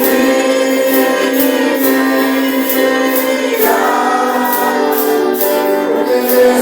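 Congregational worship song: a group of voices singing a slow, held melody, with a light percussion beat about twice a second.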